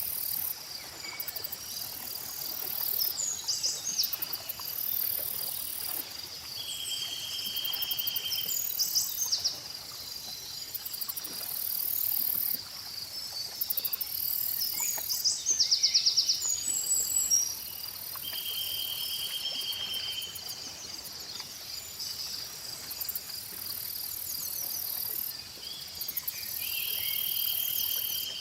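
Outdoor nature ambience: crickets and other insects chirring steadily in a fast pulsing trill, with short buzzy insect calls every few seconds and scattered high bird chirps.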